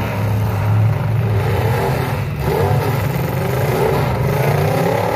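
Engines of several demolition derby cars running together, a steady low rumble with revs rising and falling.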